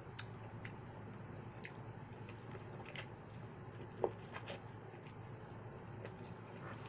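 Close-up eating: quiet chewing with scattered short, wet mouth clicks, the sharpest a little after four seconds in.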